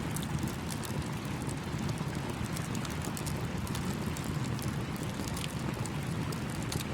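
Campfire crackling with frequent small, sharp pops over the steady rush of a small stream.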